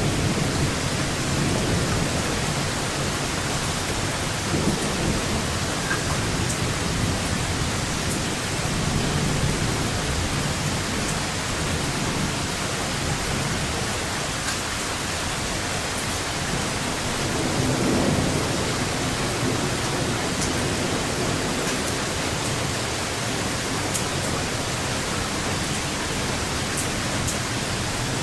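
Steady rain falling, with several low rolls of thunder; the longest, strongest rumble swells about eighteen seconds in.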